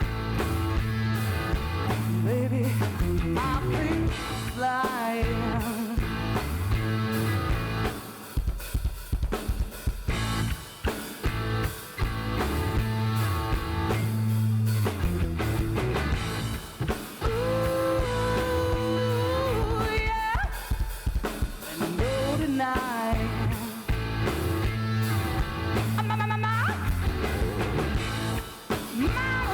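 Live rock band playing a song: drum kit and bass keep a steady beat under a melody line that slides up and down in pitch.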